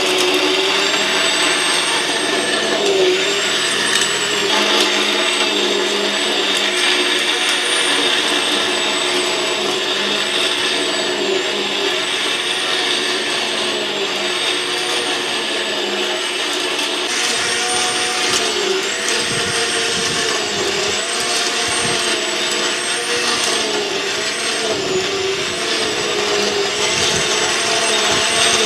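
GreenWorks 8-amp corded electric cultivator running steadily, its motor whine dipping and recovering in pitch every second or two.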